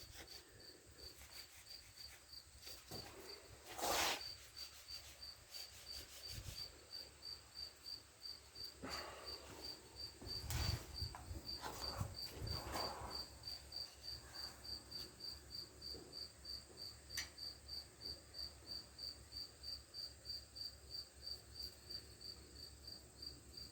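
A cricket chirping steadily, a short high-pitched chirp about two or three times a second, with a few faint knocks and scrapes around it.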